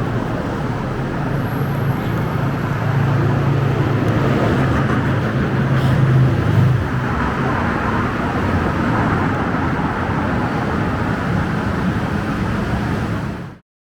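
Steady engine hum of road vehicles with traffic noise, swelling slightly about six seconds in and cutting off abruptly near the end.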